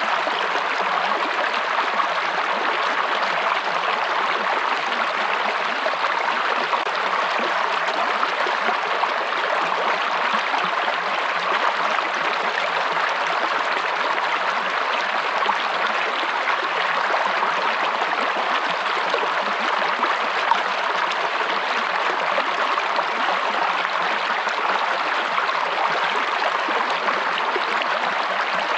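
Running water of a stream or brook, a steady, even rush and babble.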